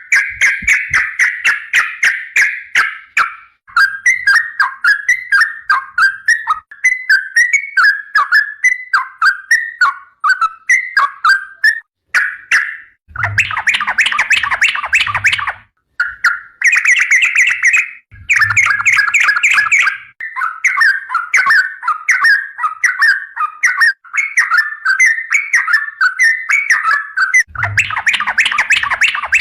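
Yellow-vented bulbul (trucukan) singing long, rapid chattering phrases of quick warbling notes, almost without a break, with fuller, denser bursts several times.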